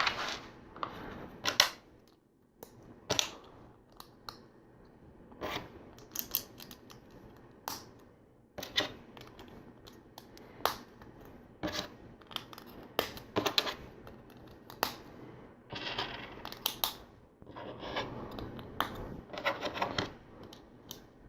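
Plastic LEGO pieces being handled and pressed together: irregular sharp clicks and small plastic clatter, with a few longer stretches of denser rattling.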